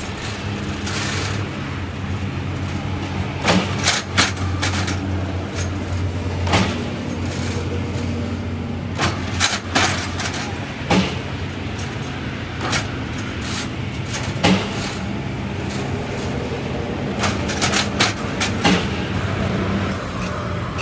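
A steady low machine hum with irregular sharp knocks and clicks over it.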